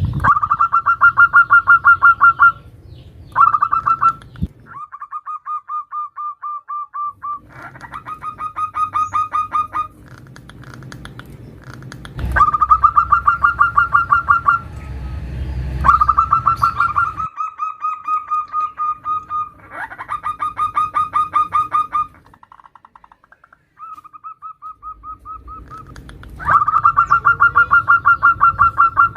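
Zebra dove (perkutut) calling: phrases of rapid staccato cooing notes, about a dozen a second, repeated with short pauses, given as a female's call to draw a male. A low rumble sits under the calls in the middle.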